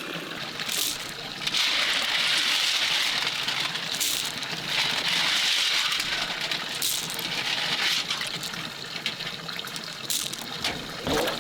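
Water rushing and gushing steadily, with a few brief splashes.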